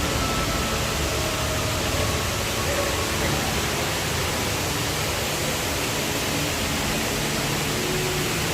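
Steady rushing noise with a faint murmur of voices.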